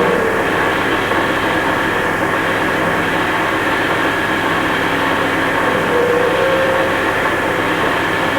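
Experimental noise-music drone: a dense, steady wash of hiss with many held tones layered through it, loud and unchanging in level.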